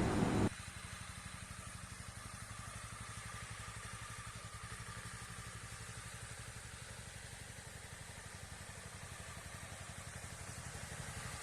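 Honda CB300R's single-cylinder engine idling steadily, its exhaust putting out an even low beat, a little louder near the end.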